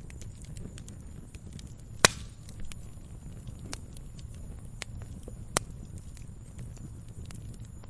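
Campfire crackling: scattered small crackles over a low rumble of burning wood, with one sharp loud pop about two seconds in and a smaller pop a few seconds later.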